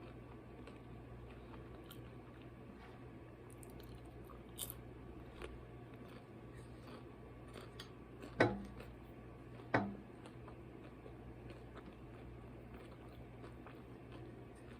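A person eating quietly close to the microphone: faint chewing and small mouth clicks over a steady low hum, with two sharper crunching clicks a little over a second apart past the middle.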